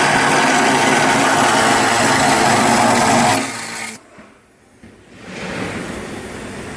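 A power tool running steadily on metal bodywork, then shutting off about three and a half seconds in, followed after a short quiet gap by a quieter steady noise.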